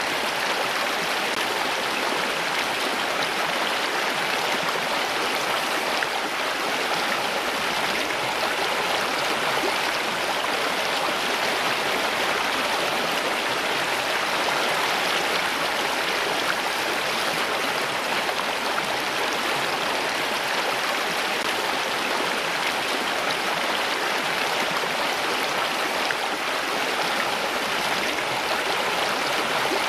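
Stream of running water flowing steadily, with no breaks or separate splashes.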